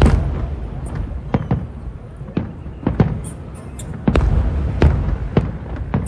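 Aerial fireworks bursting in quick succession: about a dozen sharp bangs over a continuous low rumble, with heavier booms near the middle.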